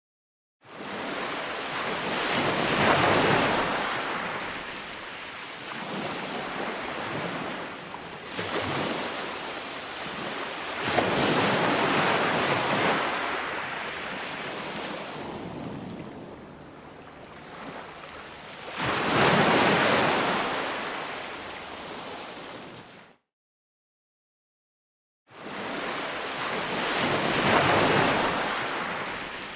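Ocean surf: waves breaking and washing in, the rush swelling and fading every several seconds. It cuts to dead silence for about two seconds near the end, then comes back.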